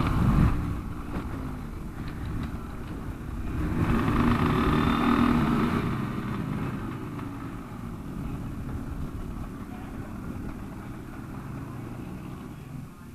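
KTM 65 SX two-stroke minibike engine running at low revs as the bike slows, with a swell in engine noise about four to six seconds in before it settles to a quieter steady run.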